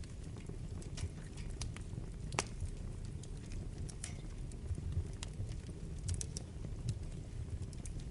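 Wood fire burning in a fireplace: a steady low rumble of the flames with sharp, irregular crackles and pops of the burning wood, the loudest about two and a half seconds in.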